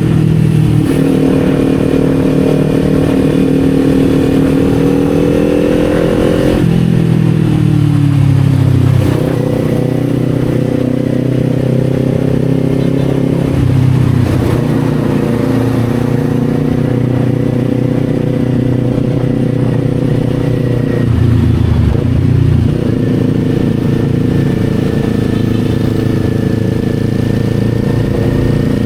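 Kawasaki Z400's parallel-twin engine running on the move, its note climbing gently and then dropping about six seconds in. After that it holds fairly steady, with a few brief changes in pitch.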